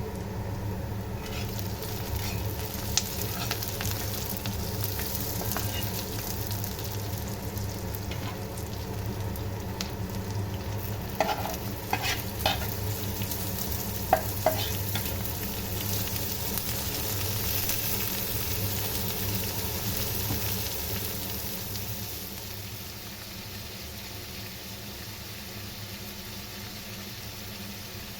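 Food sizzling as it fries in a pan, stirred with a utensil that knocks against the pan a few times, mostly in the middle. The sizzle grows quieter about three-quarters of the way through.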